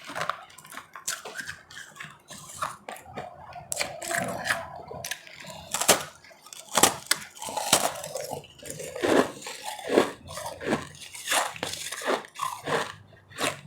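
Close-miked chewing and crunching of ice in the mouth, with irregular sharp crunches several times a second.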